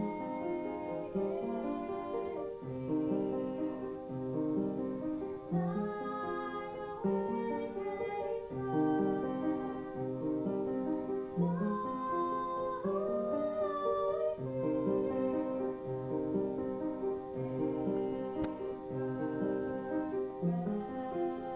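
Piano played in steady repeated chords, with a female voice singing a slow melody over it in stretches.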